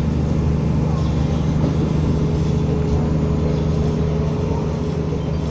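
Materfer railcar's diesel engine running steadily under way, a low hum with a steady higher whine joining about two seconds in.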